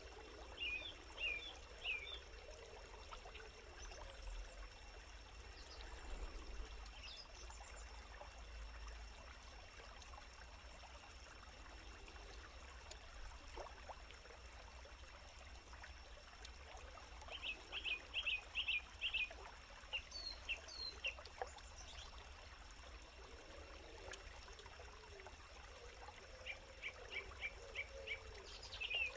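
Forest ambience: a bird calls in quick runs of short chirps, three runs in all, near the start, in the middle and near the end, over a faint steady hiss of a small stream.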